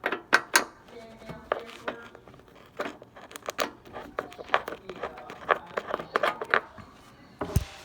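A run of sharp clicks and knocks of hands handling hard objects, with one heavier thump near the end.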